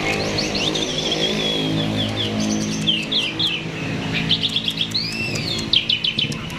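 Starling (jalak) singing a rapid, varied song of chirps and short whistles, with one longer arching whistle about five seconds in. A low engine-like hum sounds underneath during the first half.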